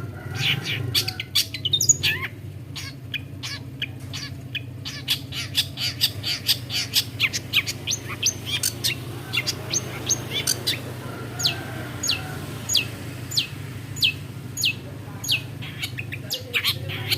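Long-tailed shrike singing. It starts with a fast, varied run of chirps and rapid notes, then shifts to a string of evenly spaced, falling whistled notes, about one and a half a second.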